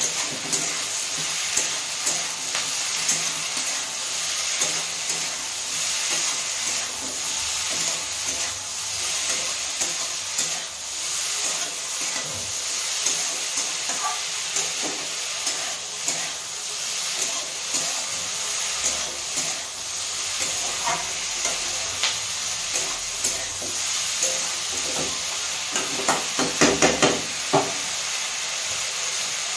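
Chopped vegetables frying and sizzling in oil in a metal kadai, with a spatula scraping and clicking against the pan as they are stirred. A quick run of louder knocks comes near the end.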